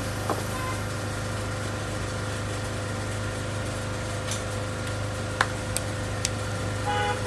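Steady low hum with thin steady tones above it, and a few sharp clicks a little past halfway.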